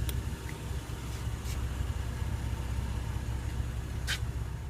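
Car engine idling: a steady low rumble, with a few light clicks over it.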